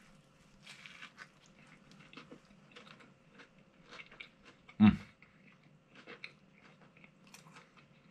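A mouthful of ultra-crispy fried chicken sandwich being chewed close to the microphone: a run of small crunching crackles, with one much louder thump a little after halfway.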